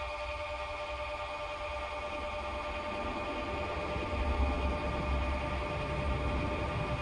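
Automotive smoke machine (Autool STD-206) running, its air pump giving a steady electric hum as it pushes smoke into the intake manifold to find vacuum leaks. A low rumble joins about four seconds in.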